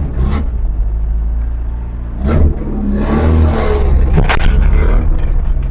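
Zastava 101 car engine running with a deep, steady note, swelling louder about three seconds in as it is revved; a sharp click near the middle of the rev.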